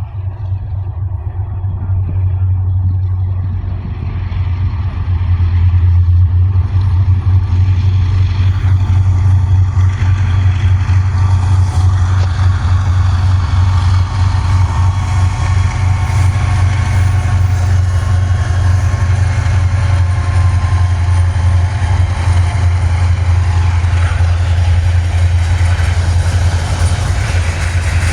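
Diesel freight locomotives approaching: a steady low rumble that grows louder about five seconds in, with rising rail and wheel noise building over the rest.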